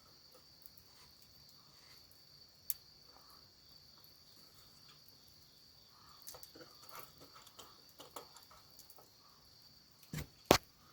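Crickets trilling steadily in a continuous high-pitched drone. Faint rustling and handling noises come in past the middle, and a couple of sharp clicks or knocks sound near the end.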